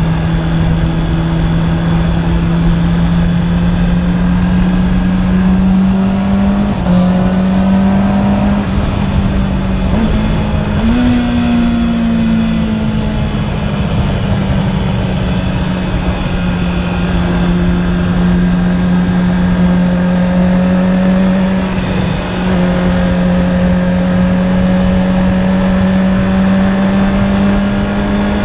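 Honda CB650R's inline-four engine through an Akrapovič exhaust, running steadily under way at moderate revs. Its pitch climbs slowly and shifts abruptly a few times, about 7, 11 and 22 seconds in, as gears change.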